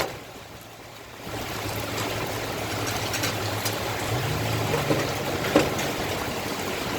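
Heavy rain falling and water running, with scattered sharp ticks of drops striking. A low steady hum runs underneath. The rain noise swells about a second in.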